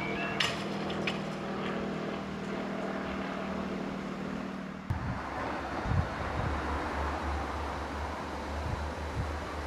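Steady hum of vehicle engines waiting at a lowered level-crossing barrier. About halfway through it changes to a low, steady rumble with wind noise as a Northern Ireland Railways Class 3000 diesel multiple unit approaches.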